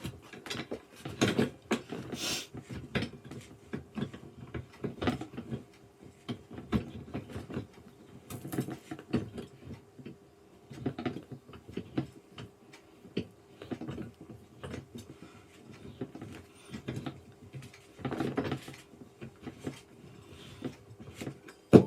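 Gaming chair parts being handled and screws fitted during assembly: irregular clicks, taps and scrapes of metal and plastic, with a sharp knock at the very end.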